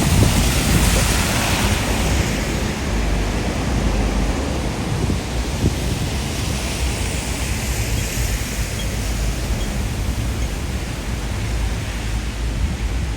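Typhoon wind and rain: a steady rushing noise with a heavy low rumble. It swells in a stronger gust over the first couple of seconds, then eases a little.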